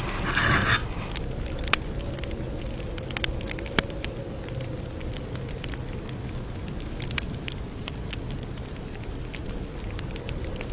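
Campfire crackling: scattered sharp pops and snaps over a steady low rumble of burning wood, with a short louder burst at the start.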